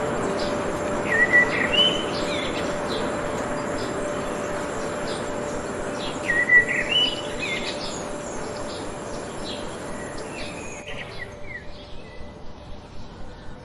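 Birds chirping over a steady outdoor hiss, with a louder rising call about a second in and again about six seconds in. Near the end the hiss falls away, leaving a run of fainter quick chirps.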